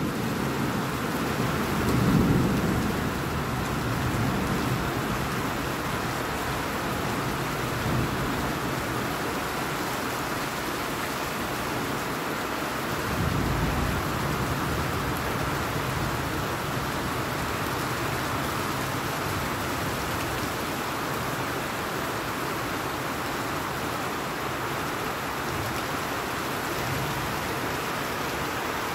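Steady rain falling on leafy trees and wet ground, a constant hiss, with two brief low rumbles: one about two seconds in and another around thirteen seconds in.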